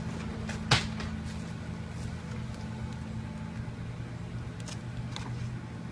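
Steady low mechanical hum, like an idling engine, with one sharp click about a second in.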